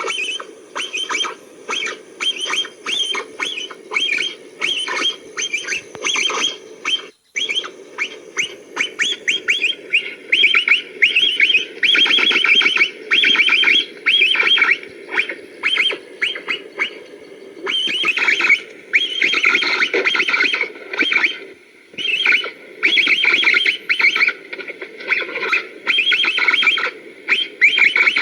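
Capybaras calling in quick trains of clicking chirps, in short bouts one after another, over a steady low hum.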